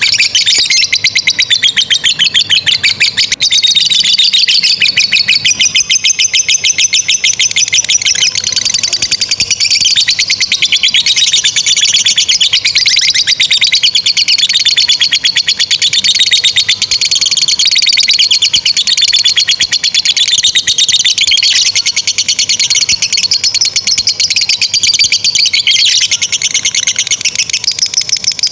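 Lovebirds chattering in a long, unbroken 'ngekek' trill: fast, shrill, rapid-fire chirps that keep going without pause, the prolonged chatter kept lovebird fanciers prize in a singing bird.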